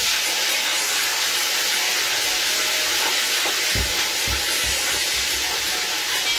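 Loud, steady sizzling of food frying in hot oil, starting suddenly, with a few dull knocks about four seconds in.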